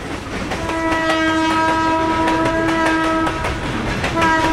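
Passenger train sounding its horn as it approaches a vehicle on the track ahead: one long blast, a short break about three seconds in, then the horn again near the end, over the clatter of the wheels on the rails.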